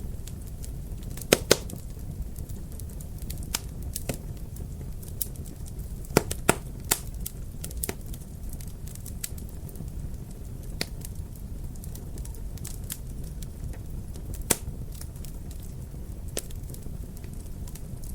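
Wood fire in a fireplace crackling, with irregular sharp pops over a low steady rumble of the burning. The loudest pops come as a pair about a second and a half in, a cluster around six to seven seconds, and one near the end.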